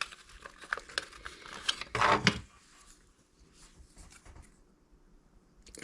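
Small objects clicking and knocking against each other as someone rummages on a workbench for a tube of super glue, with a louder scraping rustle about two seconds in.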